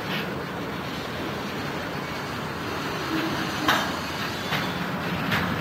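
Freight train moving through a rail yard: a steady rumble with a few sharp knocks, the loudest just past the middle.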